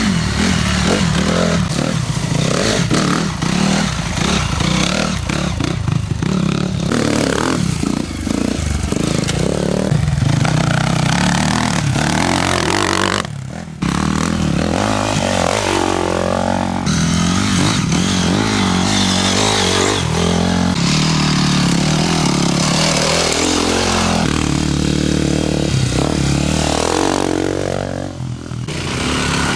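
Enduro motorcycle engines running and revving, their pitch rising and falling as the bikes accelerate and pass. The sound breaks off briefly about 13 seconds in and again near the end.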